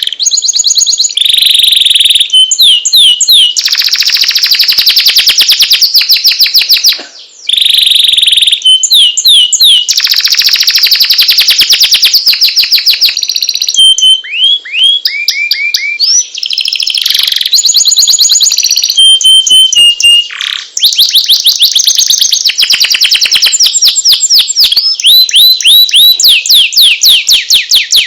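Domestic canary singing nonstop: rapid trills and rolls of repeated notes alternating with whistled notes that slide down in pitch, with brief breaks about seven and twenty seconds in.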